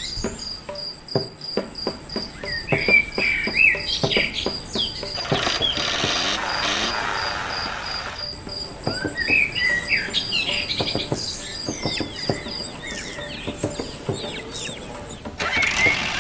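A cricket chirping in a fast steady pulse, with birds chirping in short bursts, until it stops near the end. Many small clicks and taps run throughout, and a rushing hiss comes in about five seconds in, lasting a few seconds.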